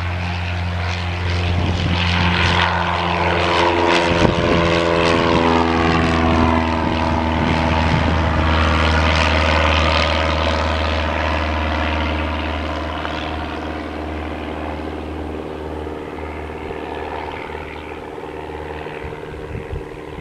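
Piper PA-28-181 Archer's four-cylinder Lycoming engine and propeller at full take-off power, passing by. The sound grows loudest a few seconds in, drops in pitch as the plane goes past, then fades away.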